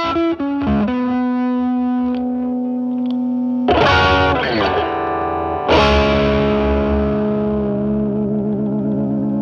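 Fender Stratocaster with single-coil pickups played overdriven through a Paul Cochrane Timmy overdrive pedal, used as a gain booster into a Marshall Valvestate amp's drive channel. It plays a held note, then a strummed chord just under four seconds in and another about two seconds later that rings out.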